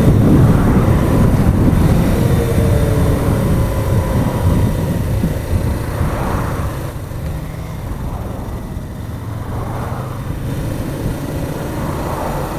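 Motorcycle running on the road, its engine rumble mixed with wind rushing over the microphone, easing off gradually.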